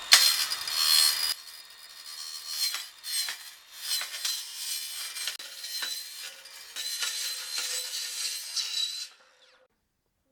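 Scraping and rubbing on 2x4 lumber during shelf building: a loud scratchy burst at the start, then irregular scraping strokes with small knocks, stopping about nine seconds in.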